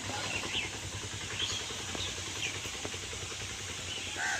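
Birds giving short, scattered chirps over a steady low hum.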